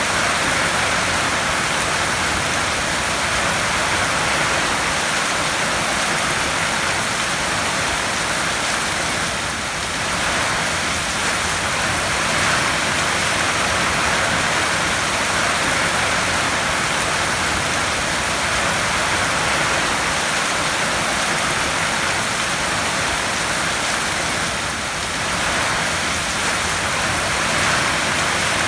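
Heavy rain falling steadily on a tin roof, a dense, even patter that eases slightly twice.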